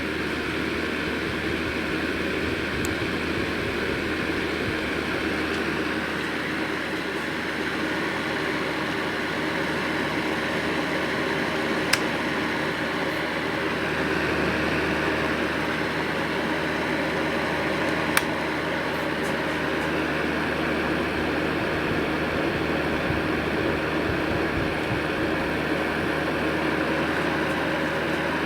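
Aceline FH 2000B electric fan heater running: a steady whoosh of its blower fan. Two brief clicks come partway through, one about twelve seconds in and another about six seconds later.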